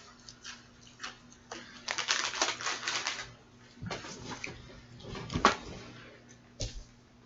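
Close handling noises: scattered clicks, a dense burst of rustling or crinkling about two seconds in lasting about a second, then a couple of heavier knocks.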